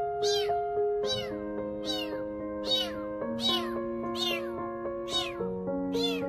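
A cat meowing over and over, short falling calls a little under a second apart, over slow music with held chords.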